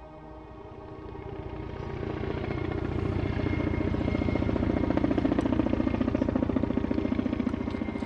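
Kamov Ka-32 coaxial-rotor helicopter, its rapid rotor beat growing louder over the first few seconds and then easing slightly, over background music.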